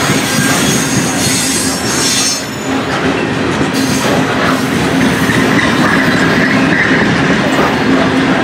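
Covered hopper cars of a CP unit grain train rolling past close by: a loud, steady rumble of steel wheels on the rails. A high wheel squeal comes in about a second in and fades by the middle, and a lower squeal follows near the end.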